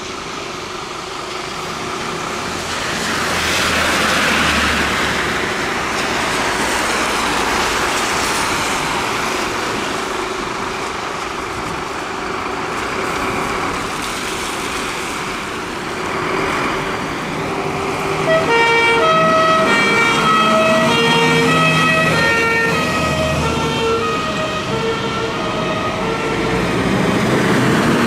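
Road traffic with vehicles passing, then, about two-thirds of the way through, an emergency vehicle's siren starts up and sounds to the end, its tone switching back and forth between pitches.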